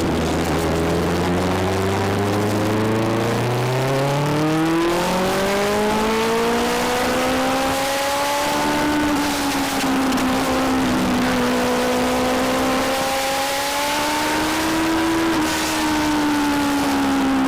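Legend race car's four-cylinder motorcycle engine running hard under racing load, its pitch climbing steadily for about nine seconds, easing off, then climbing again until about fifteen seconds in before easing once more as the car goes through a lap.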